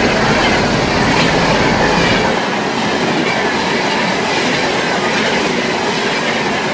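Train running on the track: loud, steady wheel-and-rail noise with rattling and a faint high wheel squeal. A deep rumble underneath drops away about two and a half seconds in.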